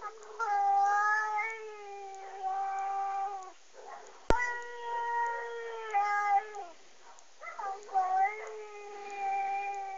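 An angry cat yowling: long, drawn-out pitched calls one after another, each held for a second or more and falling off at its end. A single sharp click about four seconds in.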